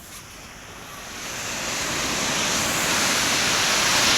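Ocean wave surging in and breaking on the beach, its rush of water swelling steadily louder over about three seconds.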